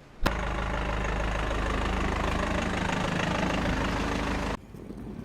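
Car engine running steadily, starting with a sharp click just after the beginning and cutting off suddenly about four and a half seconds in.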